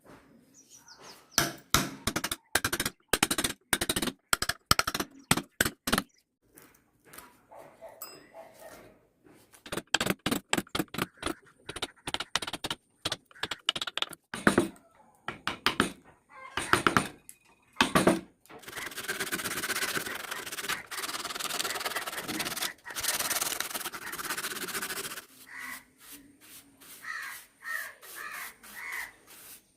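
Hand woodworking on a carved wooden bird: runs of quick, sharp knocks on wood several times a second, then about six seconds of steady abrasive rubbing on wood, then a few softer strokes near the end.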